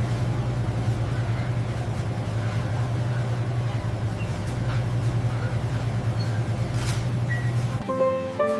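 Car engine running steadily with a low hum, cutting off near the end.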